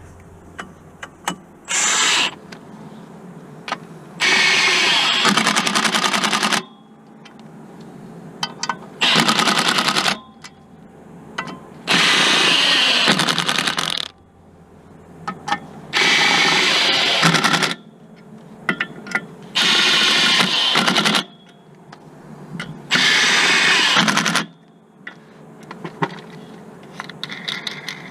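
Impact wrench run in seven short bursts of rapid hammering, each one to two and a half seconds long, with light metal clinks between them as bolts are spun out or run in.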